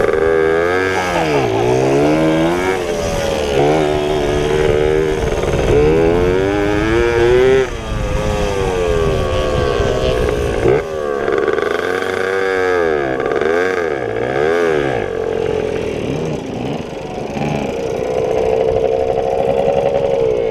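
Pit bike engines racing, revving up and dropping off again and again as the bikes accelerate and slow through the track, with a longer stretch held at high revs near the end.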